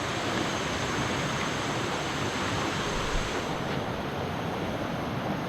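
Steady rush of a waterfall, a continuous even roar of falling water.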